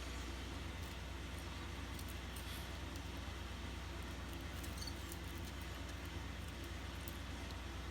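Steady low hum and background hiss, with scattered faint clicks. A bird gives one brief, faint high chirp about five seconds in.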